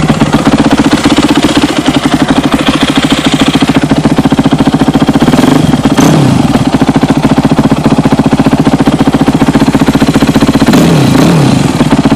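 2006 Yamaha YZ250F's 250cc four-stroke single-cylinder engine idling to warm up after a cold start, running loud and steady. Its pitch wavers briefly twice, about six and eleven seconds in.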